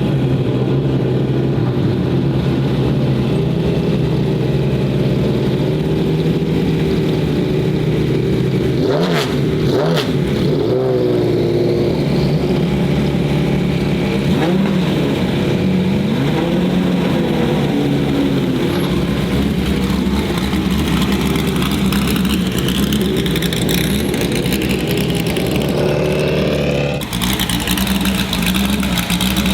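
Oilstainlab Half 11's straight-piped LS V8 running loud at a steady, lumpy low-rev idle, with blips of revs about nine seconds in and again midway. The revs sweep up towards the end.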